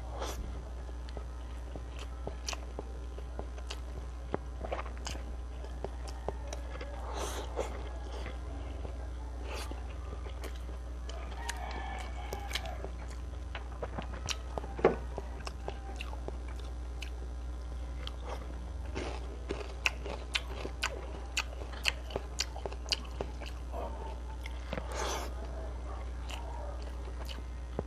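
Close-miked eating: a person biting and chewing crispy fried fish with rice, with many small crunches and wet mouth clicks, coming thickest in the last third. A steady low hum runs underneath.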